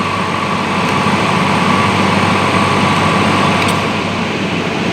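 Vacuum-test equipment running steadily, a loud even rushing hiss with a faint high whine that fades toward the end.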